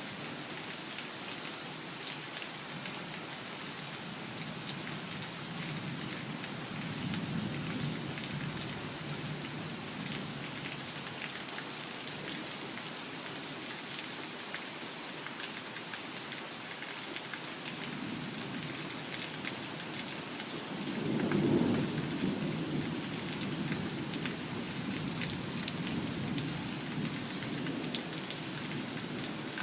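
Heavy rain falling steadily with the patter of drops, and thunder rumbling twice: a softer roll about seven seconds in and a longer, louder one from about eighteen seconds, peaking a few seconds later.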